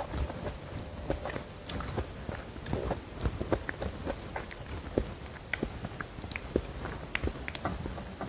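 Close-miked chewing and biting with frequent short, crisp crunches and wet mouth clicks.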